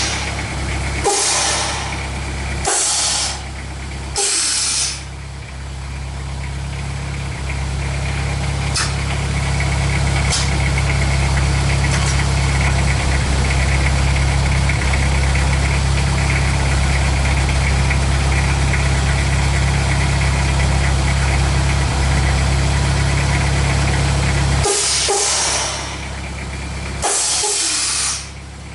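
Toyota 2L-T four-cylinder turbo diesel idling steadily with a diesel knock. Five short bursts of hiss break in, three in the first few seconds and two near the end.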